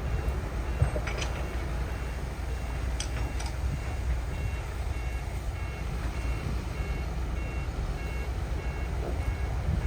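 Heavy earthmoving machinery running with a steady low diesel rumble, while a reversing alarm beeps at an even pace. A few short knocks sound around one and three seconds in.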